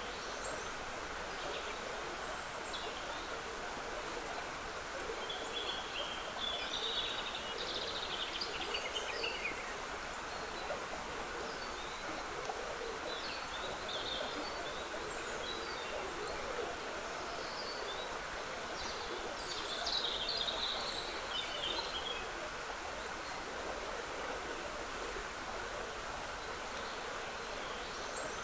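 Trickling water running steadily, with birds singing in short, scattered phrases over it; the fullest bursts of song come about a quarter and three quarters of the way through.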